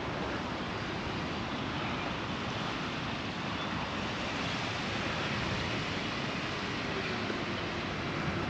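Ocean surf washing on a sandy beach as a steady, even rush, with some wind.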